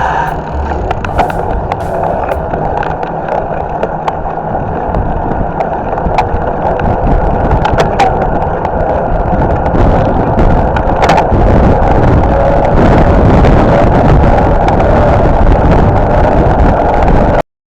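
Hardtail mountain bike being ridden on a trail: wind rushing over the microphone, tyre noise and sharp clicks and rattles from the bike, getting louder about ten seconds in and cutting off suddenly near the end.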